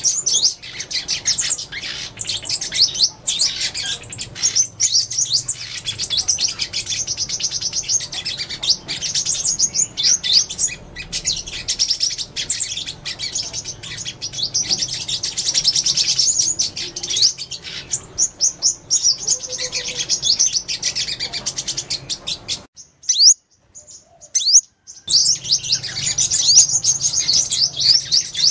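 Sunbird song: a fast, high-pitched stream of twittering chirps, broken by a short silence about 23 seconds in before the twittering resumes.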